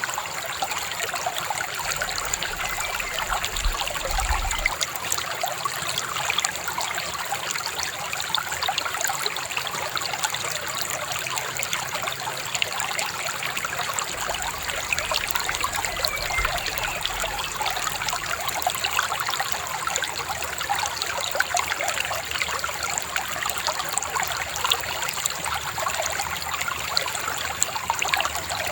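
Shallow river babbling and trickling over stones, a steady even rush of water.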